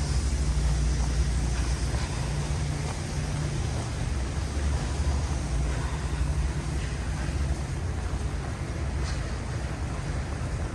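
Storm wind buffeting the microphone: a low, uneven rumble over a steady hiss.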